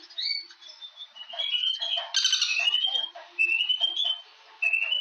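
A bird singing: a string of short whistled phrases, several rising in pitch, with a harsher, fuller burst a little after two seconds in.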